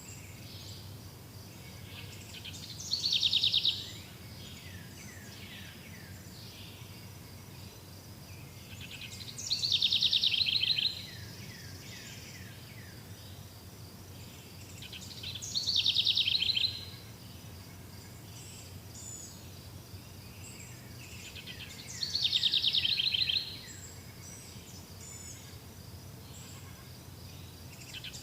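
A songbird singing the same fast, high trill over and over, five times, about every six seconds, each song lasting just over a second. Under it runs a faint, steady, high-pitched hum and a low rumble.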